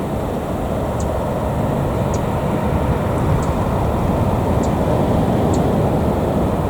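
Jet airliner engines running with a steady, loud rumble, from a JetBlue Airbus A321.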